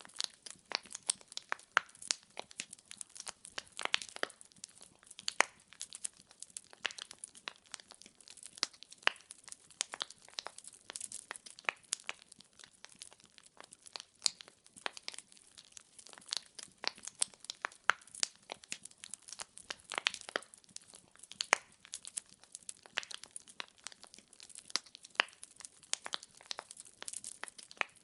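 Burning firewood crackling: an irregular run of sharp pops and snaps, several a second, over a faint hiss.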